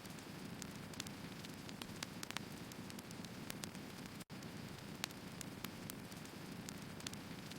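Firewood burning: irregular sharp crackles and pops over a steady low rush of flame. The sound cuts out for an instant about four seconds in.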